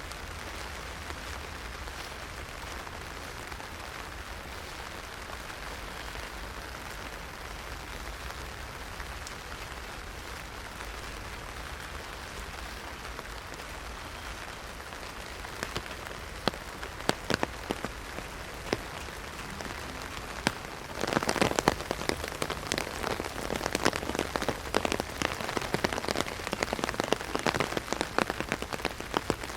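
Heavy rain pattering on an umbrella. At first it is a steady even hiss; from about halfway through, loud single drops strike the umbrella, and a few seconds later the pattering becomes much denser and louder.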